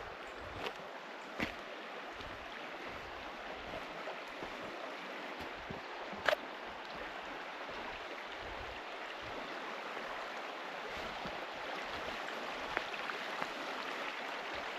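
Steady rushing of a forest stream, growing slightly louder, with a few sharp clicks, the loudest about six seconds in.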